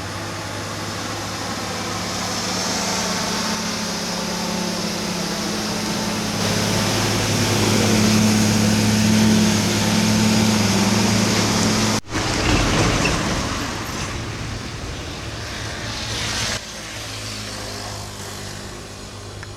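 Dump truck's diesel engine labouring up a steep hill, its steady drone growing louder over the first twelve seconds. The sound breaks off sharply for an instant about twelve seconds in, then goes on and fades away toward the end.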